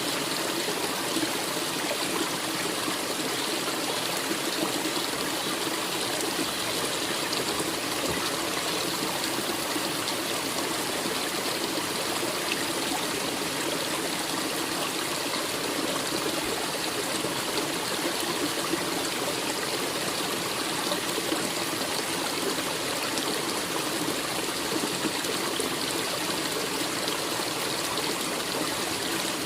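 A forest stream running steadily.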